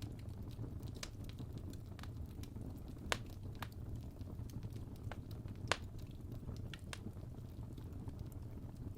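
Campfire burning with a steady low rumble of flames and scattered sharp crackles and pops, two louder pops about three seconds in and just before six seconds in.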